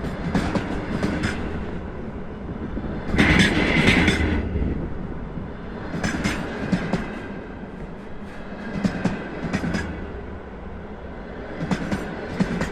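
Container freight train wagons rolling past, their wheels clacking over rail joints in clusters every two to three seconds as each set of bogies crosses, over a steady rolling rumble. A louder, harsher burst comes about three seconds in.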